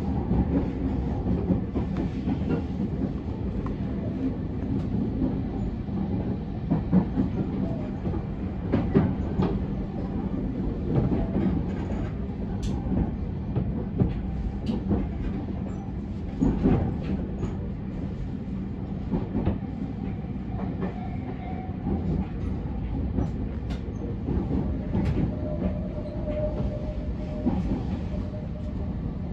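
Interior running sound of a JR East 701 series electric multiple unit at speed: a steady rumble of wheels on rail, broken by irregular rail-joint clicks and clatter. A faint whine comes in near the end.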